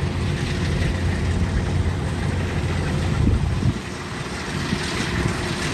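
Kubota DC-120X diesel engine running steadily with a low hum that eases a little about four seconds in.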